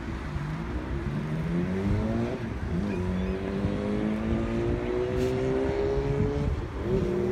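A car engine accelerating, its pitch rising steadily, dropping sharply twice at gear changes and climbing again each time. A low wind rumble runs underneath.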